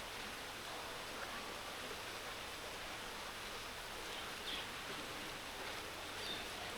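Steady hiss of rain falling in the countryside. Two faint, short high chirps come in the second half.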